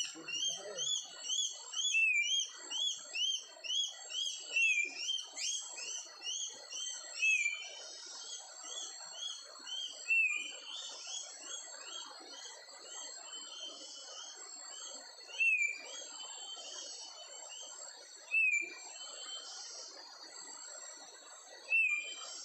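Forest birds (kapas tembak) calling: a quick run of short, hooked chirps, about two a second, then sparser single louder notes every few seconds. A steady high insect-like drone comes up behind them after several seconds.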